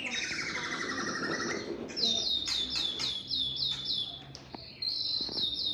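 Male white-rumped shama singing: a descending warbled phrase, then rapid runs of repeated high whistled notes, about five a second, broken by a short pause about four seconds in.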